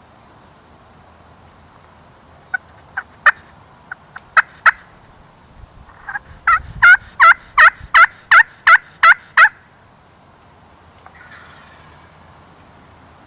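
Turkey call worked close by: several sharp single clucks, then a run of about ten evenly spaced hen yelps, roughly three a second, calling to locate gobblers.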